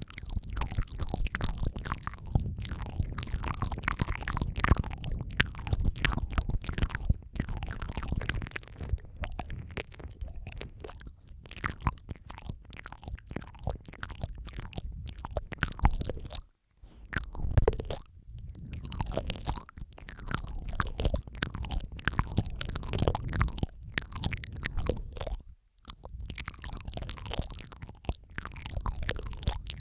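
Close-miked ASMR mouth sounds, several recordings layered: continuous wet clicks, smacks and licking noises with a deep rumble underneath. The sound drops out briefly twice, about halfway through and again near the end.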